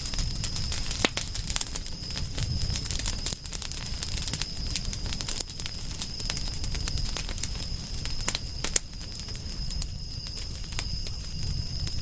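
Campfire crackling, with a dense run of irregular sharp pops and snaps over a low rumble. A steady high-pitched tone runs underneath.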